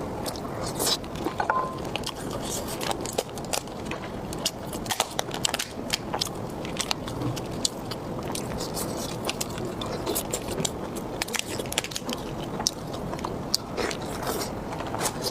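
A person chewing and biting food right at the microphone, with many sharp wet mouth clicks and smacks over a steady chewing noise.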